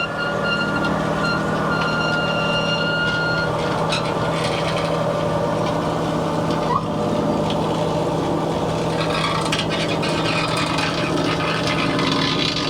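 Girard electric awning's motor running steadily as it drives the awning, a constant hum with a thin high whine for the first few seconds.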